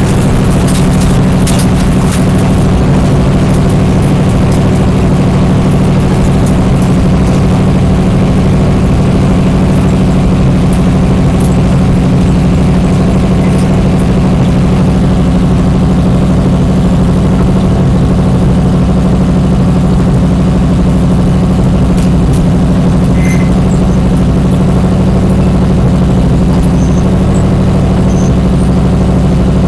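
Stock car's V8 engine running steadily at low revs, heard loud from inside the cockpit as the car rolls slowly down pit road.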